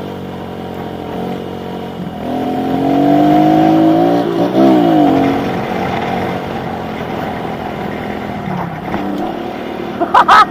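Kawasaki KLX110 pit bike's small single-cylinder four-stroke engine revving: the revs climb, rise and fall sharply in the middle, then settle lower. Several brief loud bursts sound near the end.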